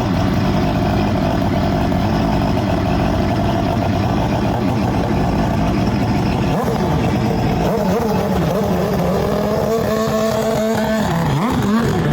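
Motorcycle engine running steadily, then revving up and down a few times near the end.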